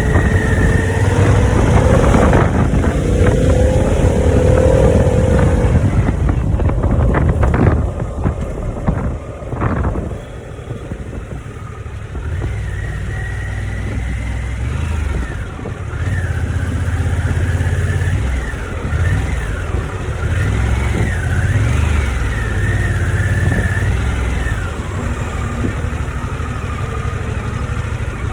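Harley-Davidson V-twin motorcycle on the road: at speed with heavy wind rush for the first several seconds, then slowing about eight to ten seconds in, and running on at low speed with a pulsing low engine rumble.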